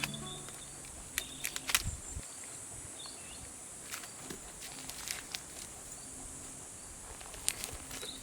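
Outdoor woodland ambience: a steady high insect buzz, like crickets, with scattered sharp clicks and snaps and a few faint bird chirps.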